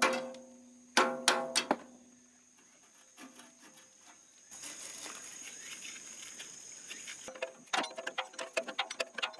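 Steel parts of a concrete mixer clanking, each knock ringing on, a few knocks in the first two seconds. About four and a half seconds in comes a steady hiss lasting about three seconds, then quick irregular clicking.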